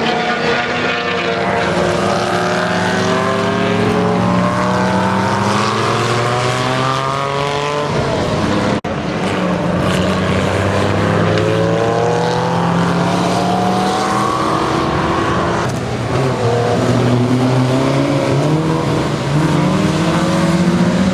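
Several classic production sports car racing engines running hard past the track, their notes overlapping and rising and falling in pitch through revs and gear changes. The sound breaks off for an instant about nine seconds in.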